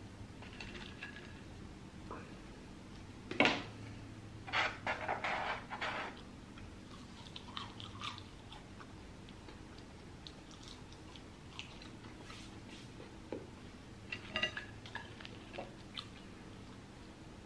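A person chewing food close to the microphone, mouth noises coming in irregular clusters. The loudest is about three and a half seconds in, followed by a run of chewing over the next two and a half seconds, and quieter bouts later.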